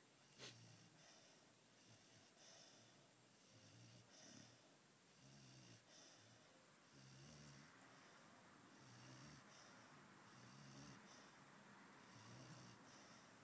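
Pit bull puppy snoring faintly in its sleep, a snore every second and a half to two seconds. A brief click just after the start.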